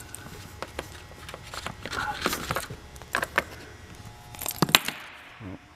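Scattered clicks and rustles of hands working the ignition key and controls on a jet ski, with a sharp click near the end.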